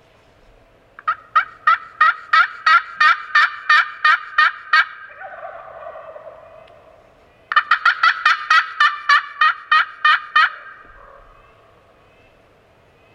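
Turkey yelping: two long runs of sharp, evenly spaced yelps, about three a second, a dozen or so in the first run and about ten in the second, with a short pause between.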